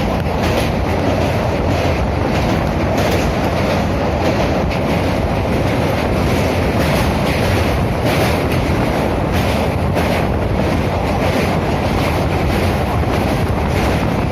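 Passenger train running at speed: a steady loud rumble with wheels clicking over the rail joints.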